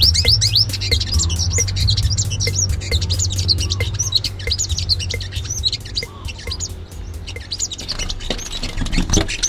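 A small bird chirping in quick, high twitters over background music with a steady beat.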